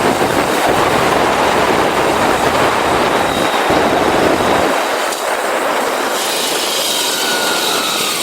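Motorcycle ride noise: a steady rush of wind on the microphone of a bike-mounted 360° camera. The deep rumble drops away about two-thirds through.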